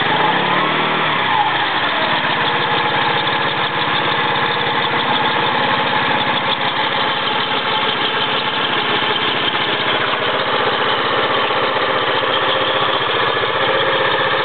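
Scooter engine running steadily with the abnormal noise of a failed bearing in its CVT pulley (開閉盤) mixed in, a continuous dense whirr with a fine fast pulsing underneath; a brief wavering whine in the first second or so.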